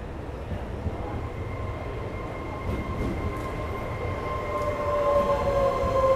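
Train pulling into the station: a steady low rumble that grows louder, with a high steady tone and, from about four seconds in, a whine slowly falling in pitch.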